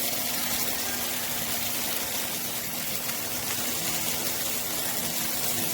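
Minced-chicken kebab skewers sizzling steadily in a frying pan on low heat, with a steady low hum underneath.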